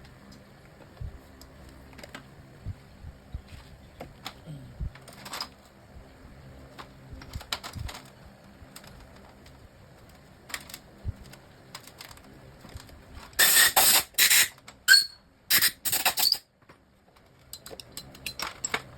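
Light clicks and taps of tools and small metal engine parts being handled, then five short, loud bursts of hissing spray about two-thirds of the way in, as when engine parts are cleaned during a top-end rebuild.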